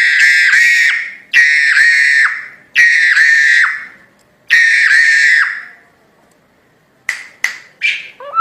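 Crested myna (jalak hongkong) giving loud, harsh, screechy calls: four about a second long each, then a few short sharp notes near the end.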